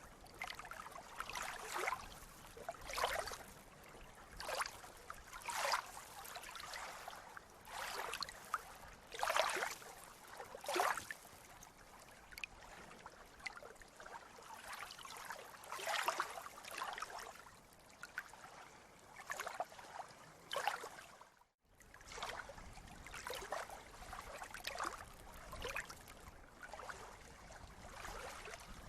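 Sea water lapping and splashing in short, irregular splashes about every second or two. The sound cuts out for a moment about two-thirds of the way through.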